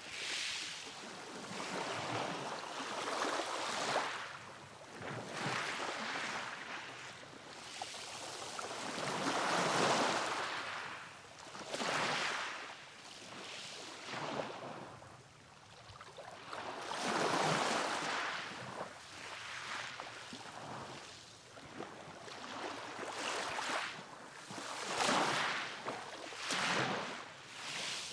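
Sea waves washing in and breaking: a rush of surf that swells and falls away every few seconds, with the biggest surges about ten, seventeen and twenty-five seconds in.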